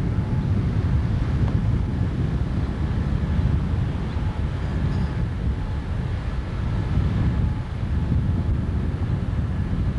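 Outboard motor running steadily as an inflatable boat runs across the water, with heavy wind buffeting the microphone and a faint steady whine over the rumble.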